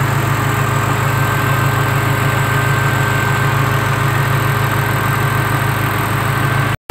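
Car engine idling steadily and evenly, with a faint steady whine above it. The idle speed has just been adjusted and set right, after the engine shook and its revs dropped when the AC came on.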